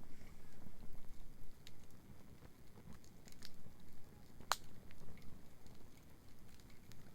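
Wood bonfire crackling with scattered small pops and one sharper crack about four and a half seconds in, over a steady low rumble.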